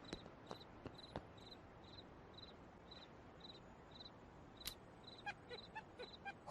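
Crickets chirping, short high chirps repeating about twice a second over near silence, with a few faint clicks near the end.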